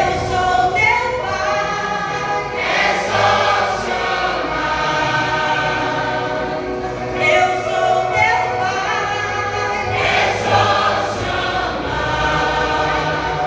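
A church worship vocal group singing a gospel song together, voices holding long notes in harmony.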